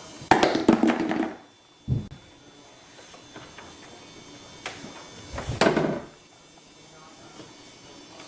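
Condiment bottles and jars in a fridge door knocking and clattering as a baby handles them: a short burst of knocks just after the start, a dull thump about two seconds in, and another burst of clattering about two-thirds of the way through.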